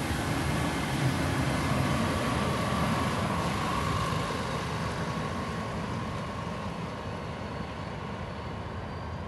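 The rear coaches and a slatted wagon of a passenger train rolling past on the rails, their noise fading slowly as the train draws away.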